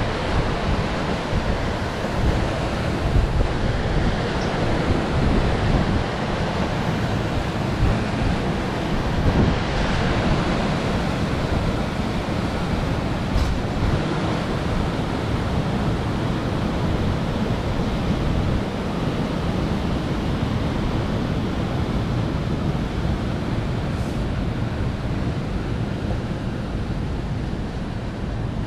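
Steady rumble and rush of a train carriage running along the track, with wind buffeting the microphone.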